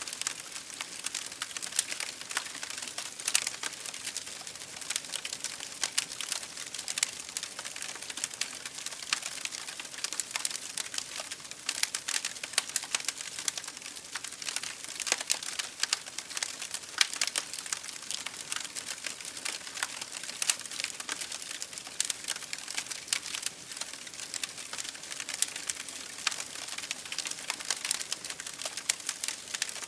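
Wood fire burning in an open fireplace, crackling with many small irregular pops over a steady hiss.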